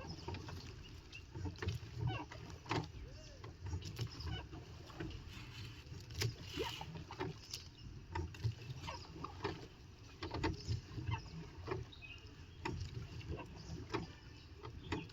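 Small boat moving on the water: irregular knocks and splashes over a low steady rumble.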